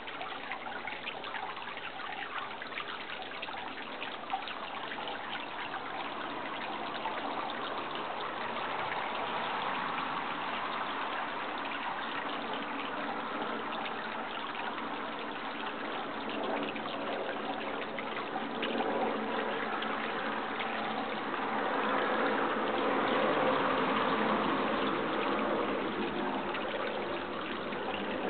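Running water trickling and flowing steadily, like a small stream, growing a little louder in the second half.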